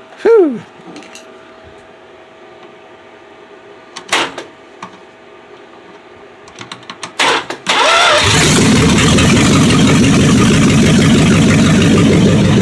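Rebuilt 318 cubic-inch V8 of a 1976 Dodge Coronet catching about eight seconds in, after a few short knocks. It then runs loud and steady at cold idle on open exhaust manifolds with no pipes.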